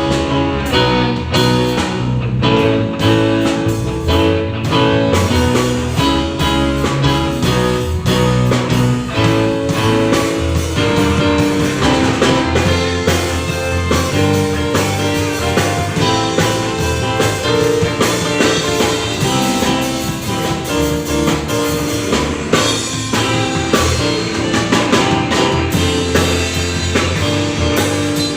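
Live church band playing during a sound check: electric guitar and drum kit with bass, a steady beat throughout.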